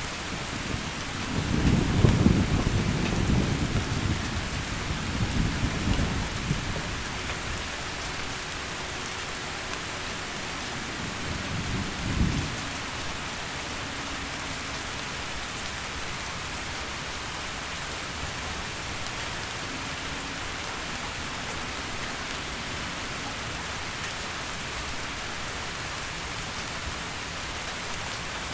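Steady heavy rain hiss with rolls of thunder: a long low rumble about two seconds in, a second one a few seconds later, and a short sharp crack near the middle.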